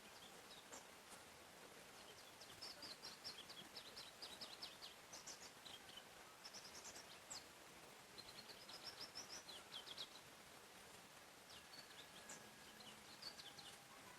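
Faint forest birdsong: several runs of quick, high chirping notes over a steady background hiss.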